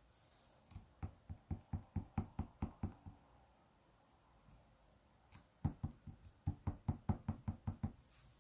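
Yellow clay slime, made with ice-cream clay and angel clay, being poked and pressed by fingers: two runs of quick soft taps, about four a second, the first starting about a second in and the second about five seconds in.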